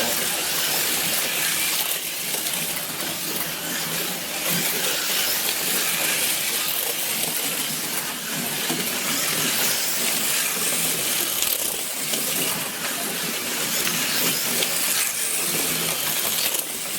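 Several plastic-chassis slot cars running laps on a routed wooden track: a steady whirring hiss of their small electric motors and gears.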